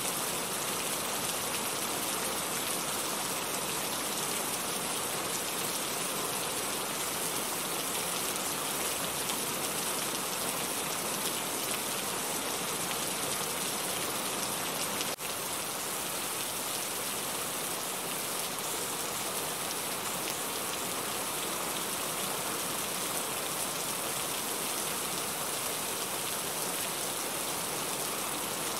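Heavy rain falling in a steady, dense hiss, with one brief click and a slight dip in level about halfway through.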